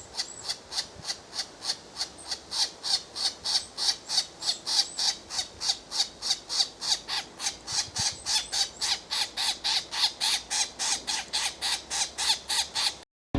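A bird calling rapidly and repeatedly with short, harsh squawks, about four a second.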